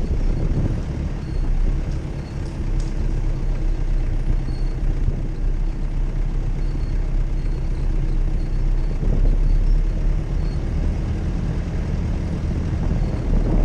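Jeep Cherokee engine running steadily as a low rumble.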